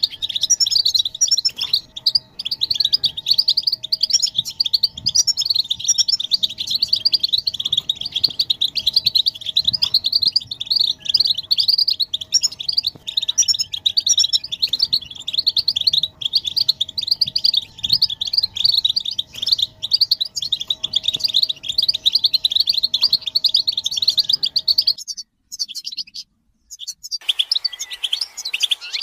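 A group of European goldfinches chattering, a dense, rapid stream of high twittering calls and song of the excited, mating-readiness kind used to set male goldfinches singing. It breaks off for a couple of seconds about 25 seconds in, then resumes.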